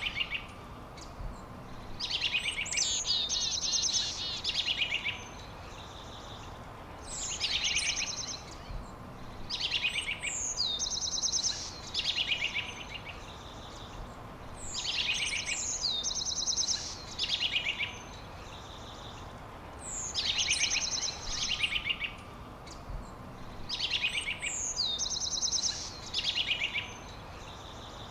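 A songbird singing the same short song over and over, about every four to five seconds; each song opens with a high downward sweep and runs into a rapid trill. A steady hiss runs underneath.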